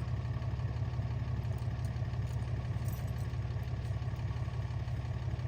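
Vehicle engine running steadily, a low even drone with no change in speed.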